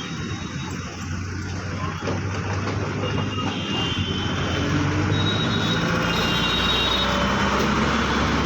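Steady low hum of a motor vehicle engine running, getting louder about two seconds in.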